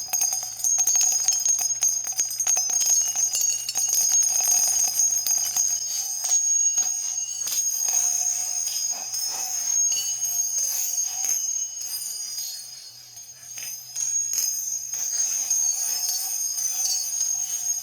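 Marbles rolling and clattering down a marble run: a dense, rapid rattle of clicks with a steady high ringing like small jingling bells, easing off briefly past the middle before picking up again.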